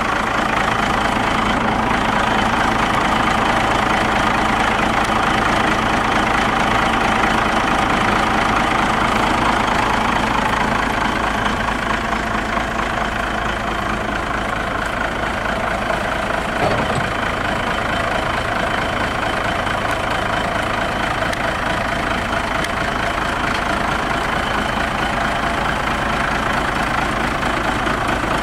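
1998 Freightliner's Cummins diesel engine idling steadily.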